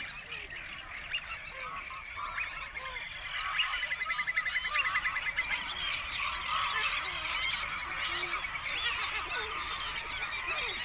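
Many birds calling over one another: short chirps and whistles, with a fast rattling trill in the middle.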